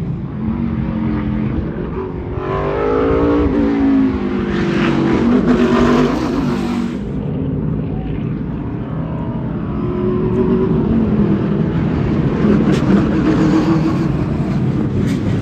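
Race car engines running on a track, rising and falling in pitch as cars pass by. It is loudest about five seconds in and again in the second half.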